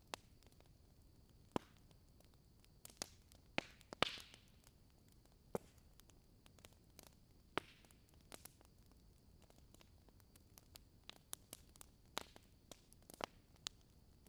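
Campfire burning quietly: wood crackling and popping at irregular intervals over a low rumble, with one louder pop about four seconds in.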